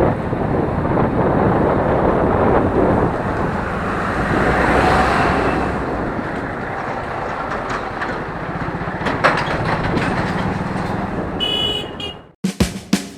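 Road and traffic noise heard from a motorbike moving through busy city streets, a steady rushing din with a low engine pulse underneath. It cuts off abruptly near the end, and music begins.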